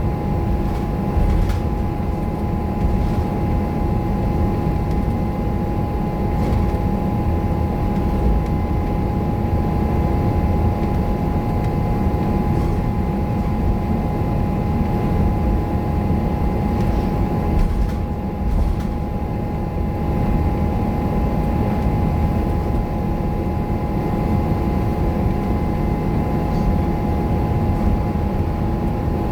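Scania K230UB single-decker bus, heard from on board, with its diesel engine running under way. A low rumble carries a steady high whine throughout, with a brief easing around the middle.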